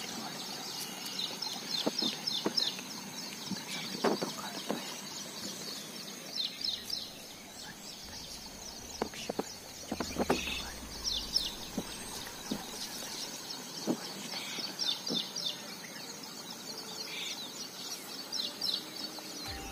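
Small birds chirping in quick runs of high, falling notes that come in clusters every second or two, with a few sharp clicks scattered among them.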